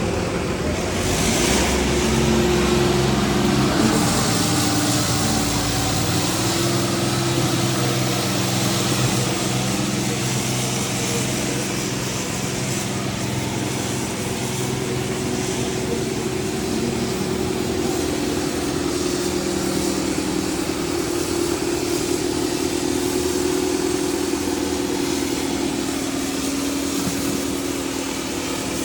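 Diesel tractor engines running hard under load in a tractor tug-of-war. The engine note holds steady for long stretches and shifts in pitch now and then.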